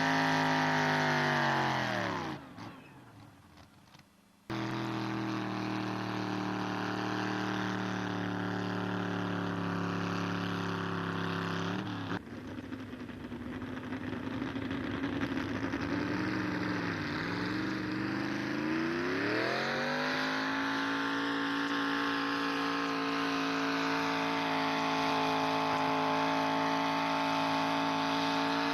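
A pulling truck's engine running hard at high revs. The revs fall away about two seconds in, and then the engine comes back abruptly, held at steady high rpm. Later the revs sag briefly and climb back to a steady high rev near the end.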